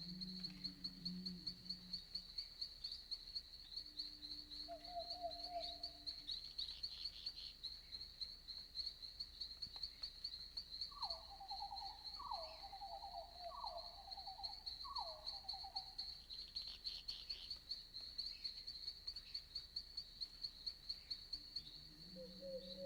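Crickets chirping steadily in a rapid, even rhythm. Other night animals call faintly over them: a low call at the start, and a run of four short calls about halfway through.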